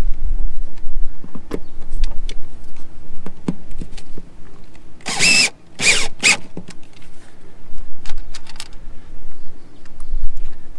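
A cordless drill/driver runs in three short bursts, driving screws into the trim of an RV water heater, amid scattered clicks and knocks of the work.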